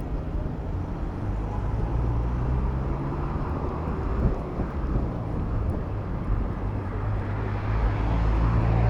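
City road traffic heard from a bicycle, with a motor vehicle engine running close by, its low hum growing louder near the end.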